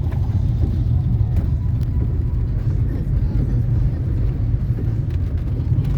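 Heavy rainstorm: a loud, steady low rumble with a few faint ticks scattered through it.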